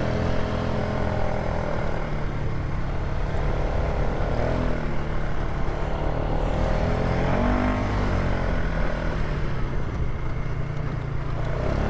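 Polaris ATV engine running at low trail speed, a steady drone whose pitch briefly rises and falls about four seconds in and again about seven seconds in.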